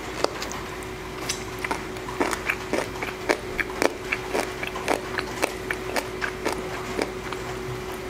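Close-miked eating: chewing with wet mouth clicks and smacks, irregular, about two a second, over a steady hiss of rain in the background.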